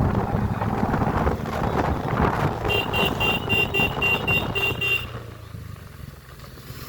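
Motorcycle riding noise with wind buffeting on the microphone. About three seconds in, a quick run of about eight short, high beeps sounds for two seconds. Around the fifth second the rumble drops away and it turns much quieter.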